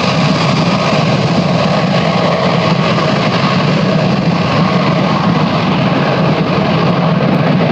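Loud, steady engine noise with a strong low hum, holding even with no rise or fall in pitch.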